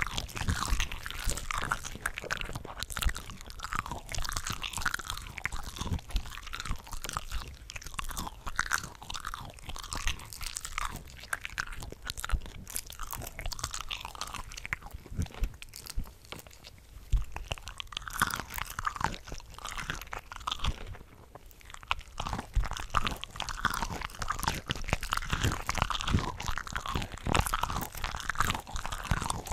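Several tracks of close-miked chewing and biting of cooked shrimp layered over one another: a dense run of bite and mouth clicks, with a short lull about three-quarters of the way through.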